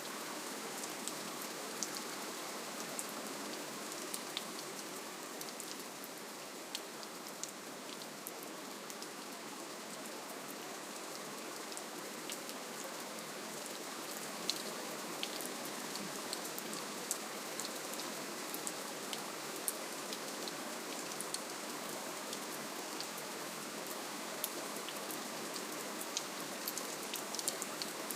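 Soft, steady rainfall: an even hiss of rain with scattered sharp ticks of single drops.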